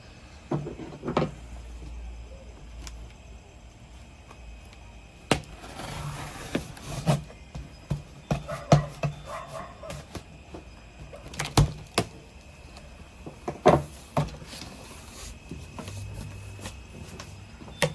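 Cardboard box being unpacked by hand: irregular knocks, thuds and clicks as flaps and packed parts are handled, with some scraping and rustling of packaging.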